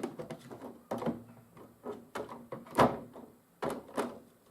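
Small clicks and knocks of a model locomotive being handled and reset on model railway track, about half a dozen, the loudest a sharp knock just under three seconds in.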